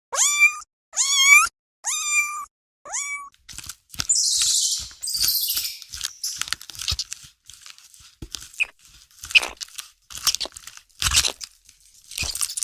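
A cat meowing four times in quick succession, each call short and rising at the start. Then irregular crunching and clicking, like chewing, runs on with a louder hissing rustle a few seconds in.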